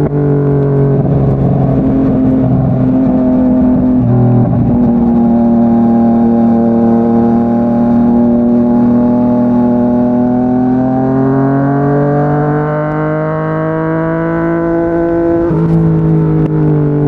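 Yamaha MT-09 inline-three engine through a Yoshimura R55 slip-on exhaust, running under load at highway speed. The engine note holds steady, then climbs gradually as the bike accelerates, and drops sharply about fifteen seconds in at an upshift.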